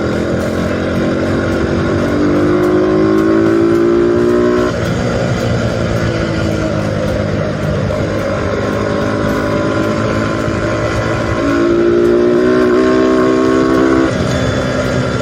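Single-cylinder pushrod motorcycle engine, TMX type, bored to 63 mm with a ported and polished cylinder head and big valves, revved hard twice. Each time it climbs to a high pitch, holds there, then falls back suddenly to a lower running speed.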